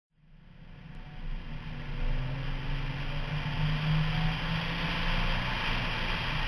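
Onboard sound of a Nissan Stagea 260RS's twin-turbo RB26DETT straight-six pulling under acceleration at track speed, with a rush of wind and road noise. It fades in from silence over the first two seconds.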